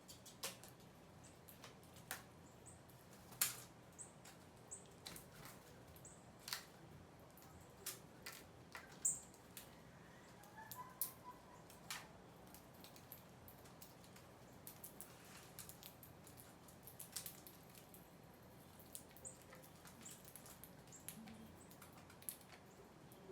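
Feeding birds making scattered small taps and clicks, with a few faint, brief high chirps.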